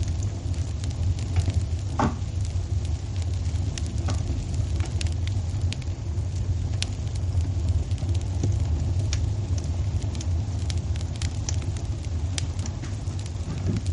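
Wood fire burning in a fireplace: a steady low rumble with frequent sharp crackles and pops throughout, one louder pop about two seconds in.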